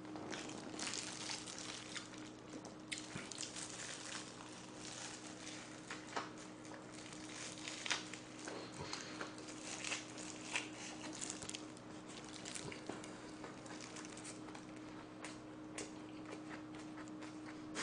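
Chewing a large mouthful of a lettuce wrap of jokbal (braised pork trotters) and noodles: irregular smacking and chewing clicks throughout, over a low steady hum.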